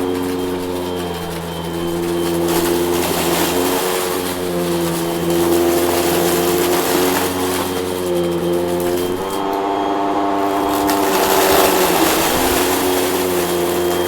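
Hoover vacuum cleaner running, its motor note wavering up and down every second or two as the load on it changes. About nine seconds in the note steps up and the rush of air grows louder.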